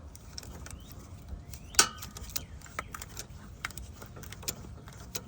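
Hand tools clinking and knocking against metal in a car's engine bay: scattered sharp clicks, with one loud ringing metallic clank about two seconds in.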